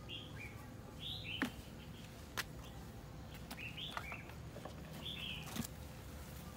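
Small birds chirping: four short groups of quick high chirps, with a few sharp clicks between them.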